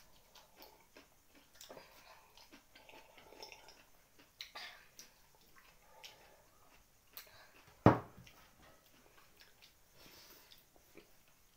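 Close-up eating sounds: biting and chewing raw cucumber, with small crunches and clicks scattered through. One sharp knock about eight seconds in is the loudest sound.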